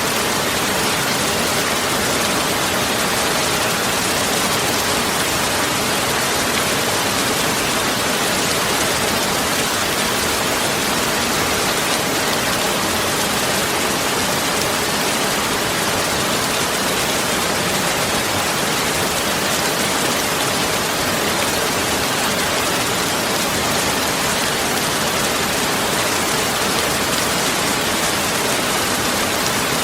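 Steady, even rushing noise, like heavy rain, unchanging throughout.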